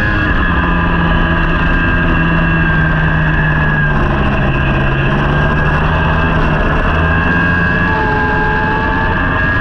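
Racing superbike engine running hard at a fairly steady pitch, its note shifting slightly near the end.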